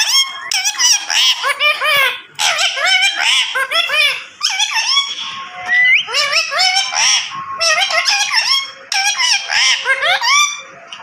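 A parrot chattering in fast, squeaky, warbling runs broken by short pauses, with a short rising whistle about six seconds in.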